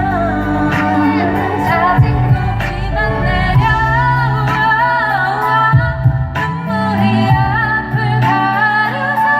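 K-pop song with female singing over a backing track with a steady beat and bass.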